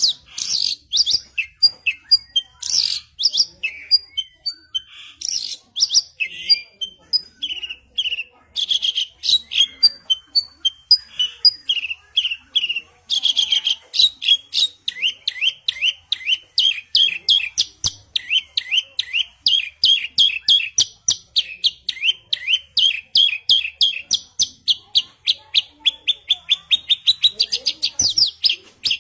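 Javan bush lark (branjangan) singing a long, fast song of sharp chirps and whistles. About halfway in, the notes run together into a continuous rapid roll of short down-sweeping notes, which quickens near the end.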